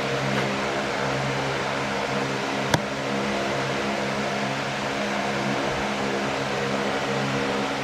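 Steady mechanical hum with a constant hiss, with one sharp click nearly three seconds in.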